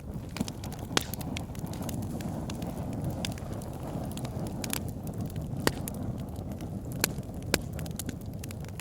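Wood fire burning in a fireplace: a steady low rumble of flames with irregular sharp crackles and pops from the logs. The loudest pops come about a second in and twice more in the second half.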